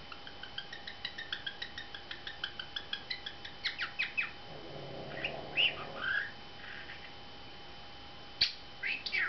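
Pet budgerigar chirping: a quick even run of short ticking chirps, about four a second, for the first four seconds, then scattered louder chirps and squawks, with a brief low warble about halfway through.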